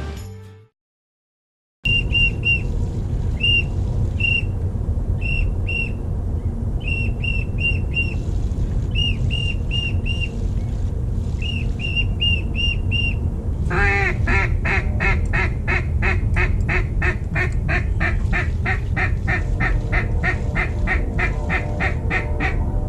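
Duck calling: short, high whistle notes in groups of two to four, then from about 14 s on a long run of rapid quacks, over a steady low rumble.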